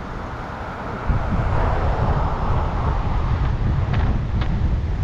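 Wind buffeting the microphone while cycling, a low rumble that gets much stronger about a second in, over a steady hiss of moving air and road noise.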